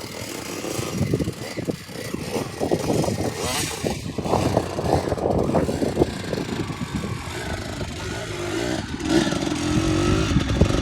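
Dirt bike engine running hard, its pitch wavering up and down near the end as the rider works the throttle.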